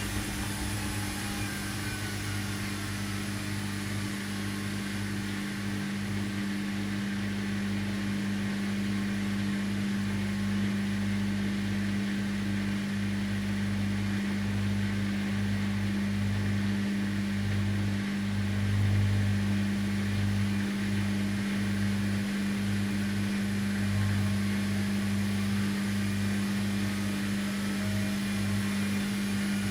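Washing machine running with a steady motor hum, a faint whine falling in pitch at first and rising again near the end as the drum's speed changes.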